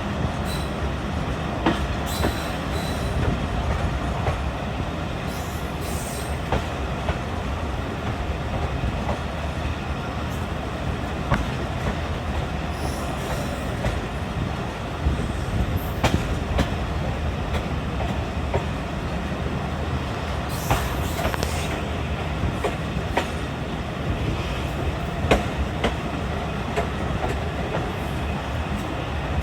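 Train running along the track: a steady rumble with irregular clicks and knocks of the wheels over the rails.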